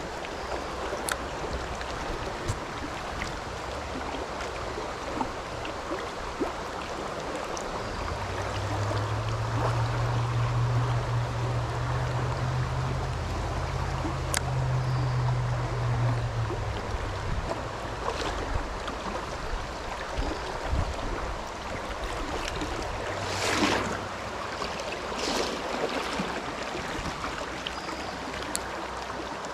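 Creek running high after a flash flood, a steady rush of water. A low hum comes in about eight seconds in and fades out about nine seconds later, and a few short clicks and brushing sounds come near the end.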